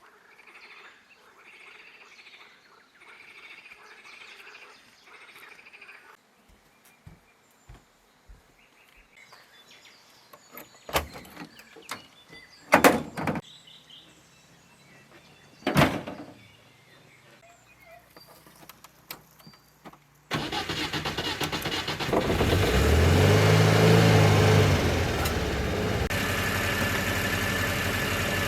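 A motor vehicle engine starts up abruptly about two-thirds of the way in and keeps running loudly, its pitch rising and then falling once. Before it there are faint repeated chirps and a few sharp knocks.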